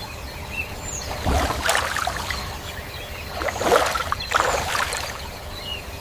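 Water splashing and sloshing in several surges over a steady rush of moving water, like strokes through a river.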